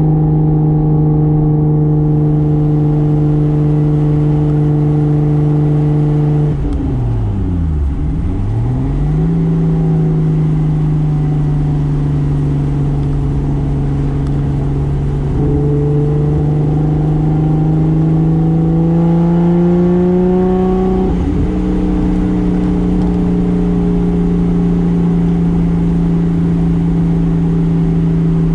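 Toyota Soarer's single-turbo 2JZ straight-six running at a steady engine speed. About seven seconds in the revs fall away sharply and come straight back up; the note then creeps slowly higher before dropping back a little around twenty-one seconds in.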